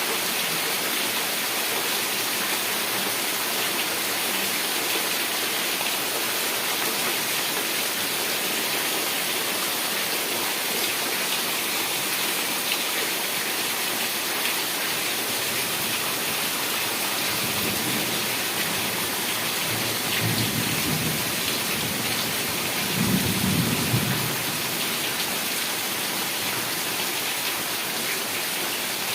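Heavy rain falling steadily. In the second half come a few low rolls of thunder, the loudest a little before the end.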